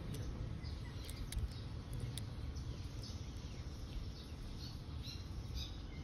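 Small birds chirping in short, falling notes scattered throughout, over a steady low background rumble, with a few sharp clicks in the first couple of seconds.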